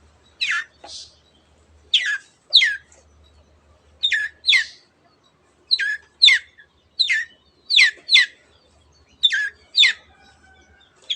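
Long-tailed shrike (cendet) giving its harsh "teot teot" call: sharp downward-sliding notes, mostly in pairs, repeated every second or two.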